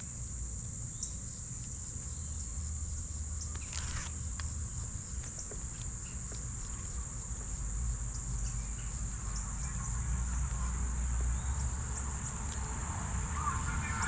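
Insects trilling in a steady, high-pitched chorus over a low rumble, with a few scattered chirps starting near the end.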